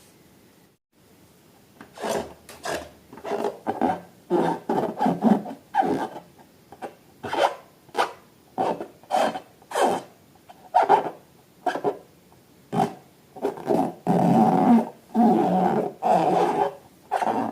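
A quick series of rubbing, squeaky strokes of rubbery material being worked by hand, starting about two seconds in. The strokes come about one to two a second and grow longer and closer together near the end.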